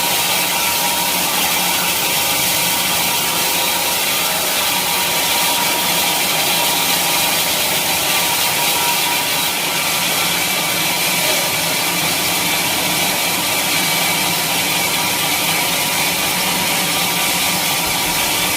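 Sawmill blade running steadily through a teak log, a continuous hissing cut with a faint steady machine hum beneath it.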